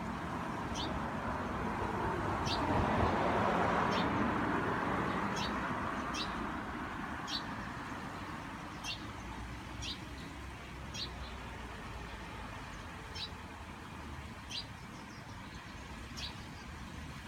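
A small wild bird calling over and over, short high calls that fall in pitch, roughly one a second. Under them a passing vehicle swells and fades, loudest a few seconds in.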